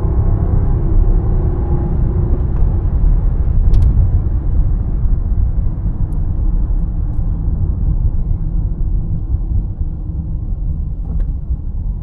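2014 Rolls-Royce Ghost driving: a loud, steady low rumble of engine and road noise, with a faint engine note in the first couple of seconds that fades away.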